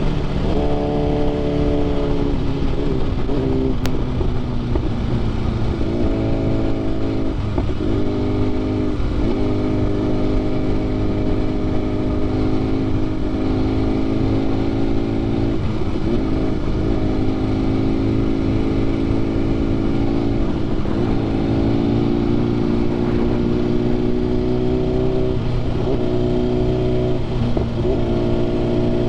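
Sport motorcycle engine with an aftermarket SC Projects exhaust running on the road. The engine note holds steady for a few seconds at a time and dips briefly now and then, as the throttle is rolled off and on.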